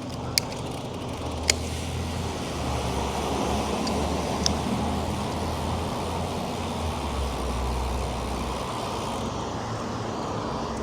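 Steady street and traffic noise heard while riding a bicycle, with a low wind rumble on the microphone that swells and fades. A couple of sharp clicks come in the first two seconds.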